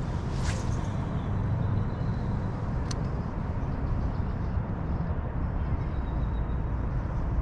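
Wind buffeting the microphone as a steady, gusting low rumble, with two brief clicks, one about half a second in and one about three seconds in.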